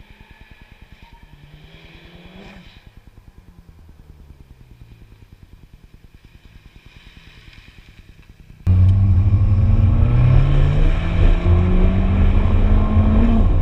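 Abarth 695 Biposto's turbocharged 1.4-litre four-cylinder engine, breathing through a stainless sports exhaust. At first it is fairly quiet and revs up and falls back once. Then it suddenly becomes much louder and accelerates hard, its pitch climbing for several seconds before dropping near the end as it changes gear.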